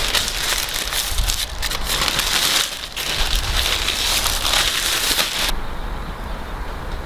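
Wood fire crackling, with dense snaps and pops over a low rumble; the crackling stops abruptly about five and a half seconds in, leaving only the rumble.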